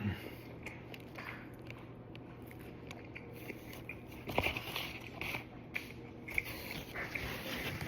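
A person biting and chewing food, with scattered small crackly mouth noises over a faint steady low hum.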